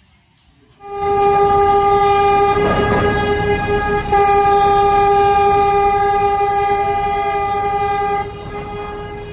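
A horn sounding one long steady blast of about seven seconds, starting about a second in and dropping in level near the end, with a brief rush of noise under it about two to three seconds in.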